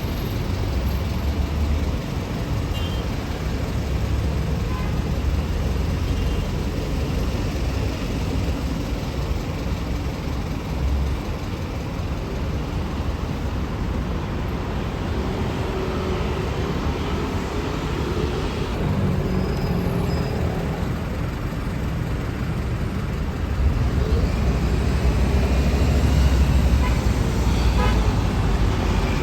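Road traffic passing: the engines and tyres of cars, trucks and buses going by, with a low rumble that swells about 24 seconds in as a heavy vehicle passes, and a few short horn toots.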